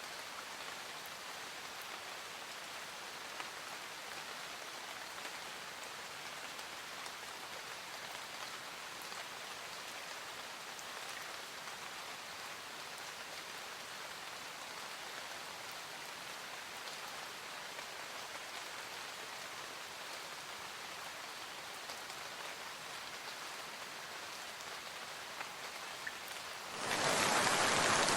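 Steady rain falling, an even hiss with a few faint drop ticks. Near the end it cuts abruptly to a much louder, denser rushing noise.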